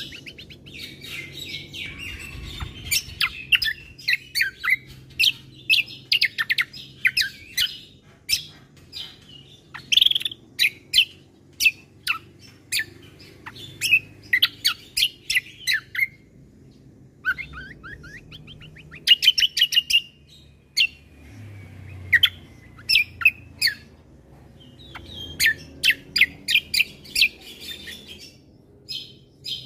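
Cucak kombo (kecial kombo) songbird singing a busy, varied song of rapid sharp chirps, trills and whistles in bursts, with a few short pauses. A faint low hum runs underneath.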